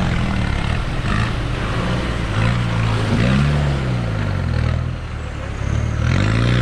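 Land Rover Defender engine revving up and down as the truck pushes through deep, muddy water, the revs rising twice, about two seconds in and again near the end.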